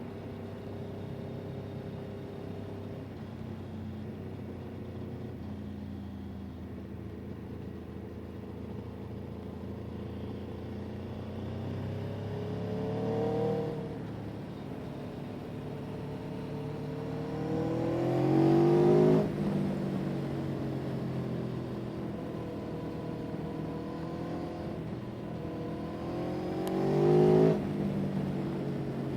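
A vehicle engine running steadily, then revving up three times, each rising in pitch and getting louder before it drops off suddenly, as at a gear change, about halfway through, two-thirds in and near the end.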